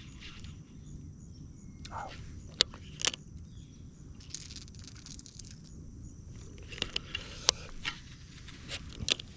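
A few sharp clicks and knocks, scattered through, over a steady low rumble of outdoor background noise.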